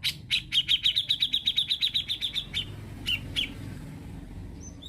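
Cucak jenggot (grey-cheeked bulbul) singing: a fast, even run of about twenty short notes, roughly nine a second for two seconds, then two single notes and short rising calls near the end.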